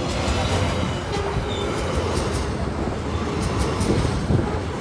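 Freight train rolling past: a steady rumble of wagons with scattered sharp clicks from the wheels on the rails.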